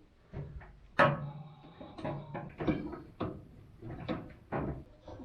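Screws being driven back into the gas valve coil bracket of a gas clothes dryer: irregular small metal clicks and knocks of the screwdriver and parts, the sharpest about a second in.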